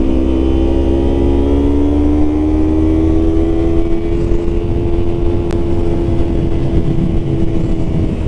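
Yamaha MT-09 three-cylinder motorcycle engine under steady throttle while riding, its pitch climbing slowly over the first few seconds and then holding, with wind rushing over the microphone.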